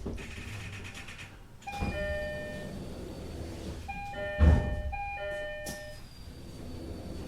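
Japanese train's electronic door chime sounding in short repeated ding-dong tones over the low rumble of the car, with a heavy thud about four and a half seconds in.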